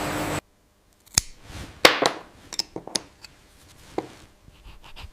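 A steady hiss cuts off abruptly near the start. After a short silence come irregular sharp clicks, knocks and light clinks of small hard pieces being handled on a work surface.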